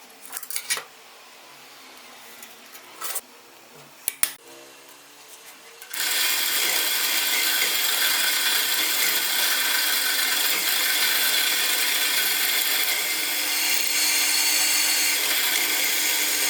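A few light clicks and knocks of handling, then, about six seconds in, a power tool starts suddenly. It runs steadily at a constant level with a hissing whine, as if it is cutting or grinding workpiece material.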